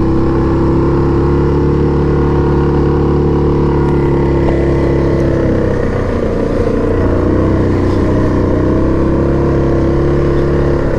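Yamaha Grizzly 700 ATV's single-cylinder engine running at a steady pitch under light throttle, easing off briefly about six seconds in.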